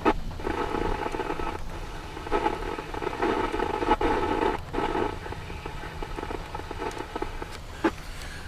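Police scanner radio receiving a crackly, static-filled transmission with no clear words. It opens with a sharp squelch click, breaks up twice, and closes with another click about eight seconds in.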